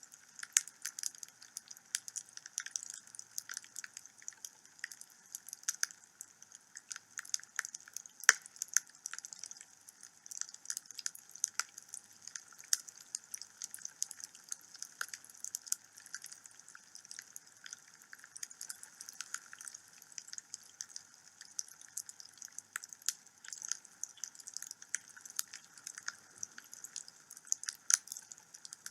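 Wood fire crackling in a home fireplace: irregular sharp pops and snaps of burning logs over a faint hiss, with one louder pop about eight seconds in.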